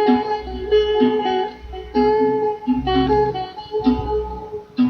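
Guitar playing an instrumental passage of a song, chords struck in a steady rhythm with a deep bass under them.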